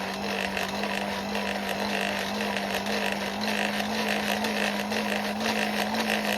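Forge blower running steadily: a constant hum with rushing air, blowing the fire of a solid-fuel forge as a chain link heats to welding heat.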